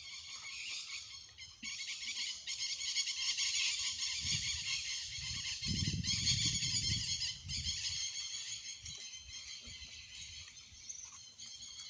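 Dense, steady chorus of calling insects, with a brief dip a couple of seconds in. A low rumble rises under it from about four to seven and a half seconds in.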